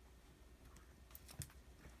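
Near silence, with a few faint light taps and clicks a little after a second in.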